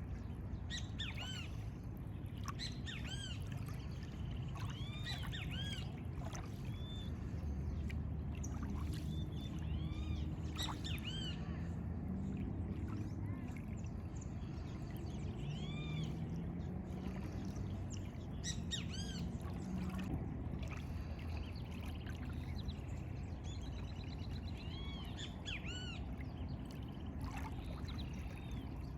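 Several birds chirping and calling in short, quickly repeated arched notes, scattered all through, over a steady low rumble.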